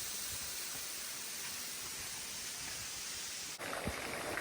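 Steady rushing hiss of falling water. It changes abruptly about three and a half seconds in to a rougher hiss with scattered small taps.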